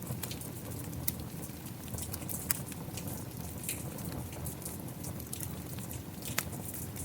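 Steady rain together with a wood fire, with sharp irregular crackles and pops from the burning wood over a continuous low hiss.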